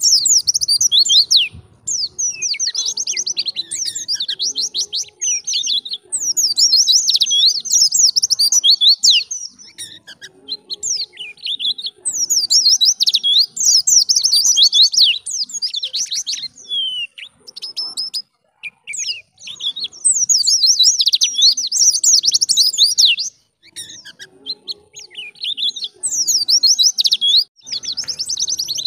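A white-eye (pleci) singing a fast, high, twittering song in the wild-type 'ngalas' style. The song comes in bouts of a few seconds, with short pauses between them.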